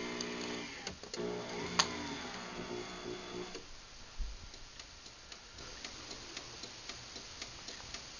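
Craftsman garage door opener motor running with a steady hum, then stopping about three and a half seconds in. A run of light, regular clicks follows.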